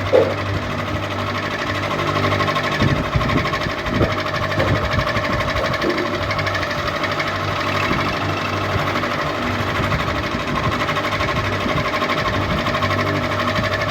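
Ceiling fan running steadily: a constant motor hum with a fast, even mechanical rattle on top.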